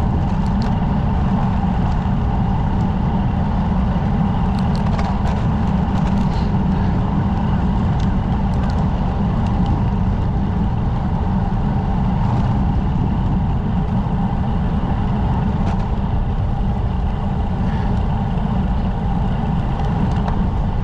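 Steady low wind rumble and road noise from riding a road bicycle, with a few faint clicks scattered through it.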